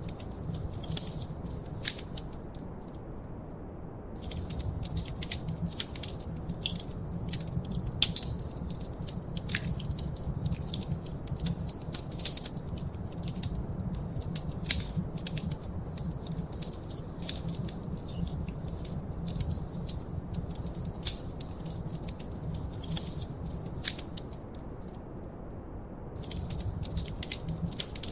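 Wood fire crackling in a fireplace: a dense, irregular stream of sharp pops and snaps over a low steady rumble. The crackling falls away twice for a second or so, a few seconds in and near the end.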